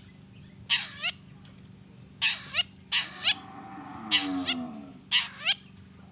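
Long-tailed shrike (cendet) giving harsh, scratchy calls, about five in a row, each a quick double note falling in pitch. Around four seconds in, a longer, lower drawn-out call joins in.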